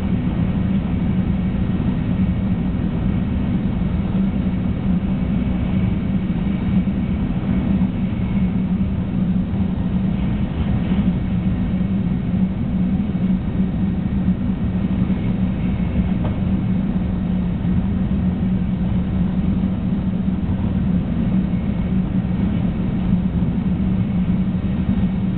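Running noise of a Shinkansen 300 series train at speed, heard inside the passenger cabin: a steady low hum and rumble that does not change.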